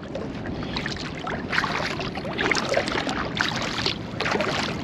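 Water splashing and lapping around a kayak in irregular bursts, with wind on the microphone.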